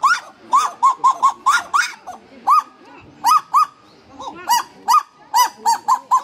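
Kagu calling back and forth in a duet: a rapid series of short, arched, nasal yelping notes, several a second in irregular runs, with some notes overlapping as more than one bird calls.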